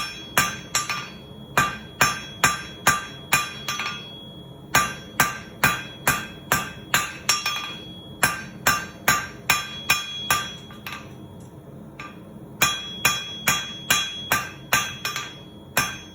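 Blacksmith's hand hammer striking hot steel on an anvil, about two blows a second, each with a bright metallic ring. The blows come in three runs, broken by short pauses about four seconds in and again about eleven seconds in.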